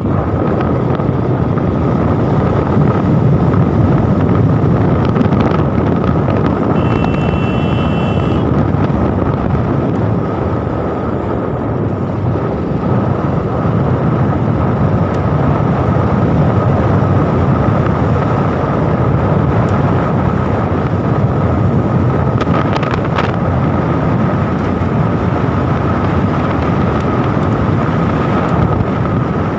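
A vehicle running steadily on the move, with wind rushing over the microphone and a faint steady whine. A short high beep sounds about seven seconds in.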